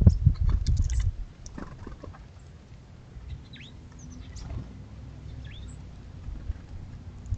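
Irregular knocks and low thumps on a wooden bird feeder in the first second, typical of an acorn woodpecker landing and pecking, then a few faint, short falling bird calls about halfway through.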